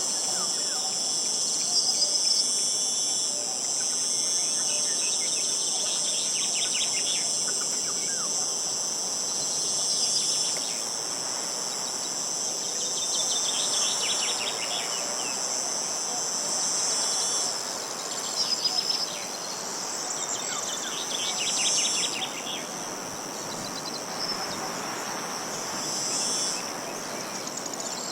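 Insects chirring in a steady, high-pitched drone, with short rattling trills cutting in every few seconds and a few bird chirps, over a soft hiss of wind.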